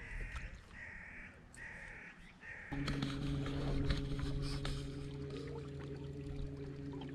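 A bird calls four times in quick succession. Then, about three seconds in, a steady low hum starts suddenly and keeps going; it is louder than the calls.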